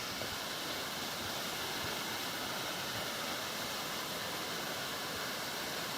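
Waterfall rushing steadily, running full and fast after heavy rain.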